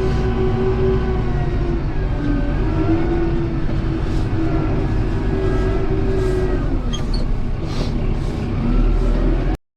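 Kubota M7060 tractor's four-cylinder diesel engine running steadily while plowing, its pitch sagging and recovering a few times as the load changes. The sound cuts off suddenly near the end.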